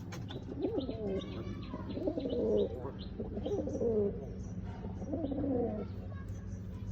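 Pigeon cooing: four warbling coo phrases, each rising and falling in pitch, with short high chirps between them and a steady low hum underneath.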